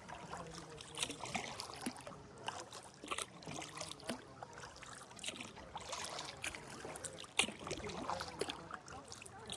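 Kayak paddling: the paddle dipping and splashing in calm water, with irregular small splashes and drips, and one sharper splash or knock about seven and a half seconds in.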